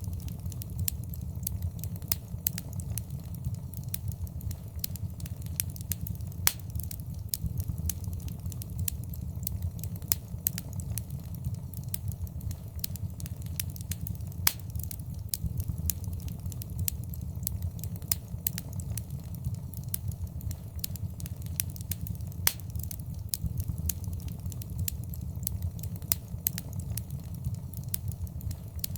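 Fireplace fire crackling, with frequent sharp pops over a steady low rumble of the flames.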